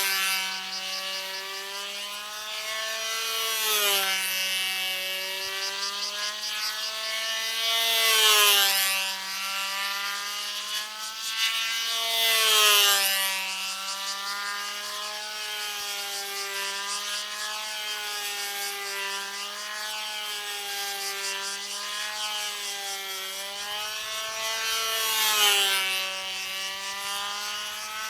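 Small model-aircraft engine of a control-line plane running at high revs in flight, its buzzing pitch rising and falling as the plane circles and manoeuvres, and growing louder each time it passes close, every few seconds.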